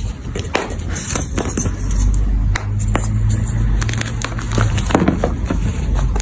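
Blocks of powdery gym chalk being crushed and crumbled, a dense run of crunchy crackles and snaps over a low rumble.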